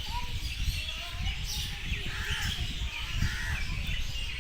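Birds chirping and calling in short, scattered notes over a constant low rumble.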